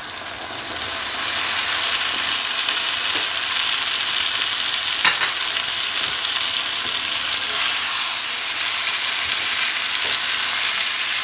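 Boiled red kidney beans hitting a pan of hot oily fried masala: a steady sizzle that builds over the first second or so and then holds. A wooden spatula stirs them in, with a few faint scrapes against the non-stick pan.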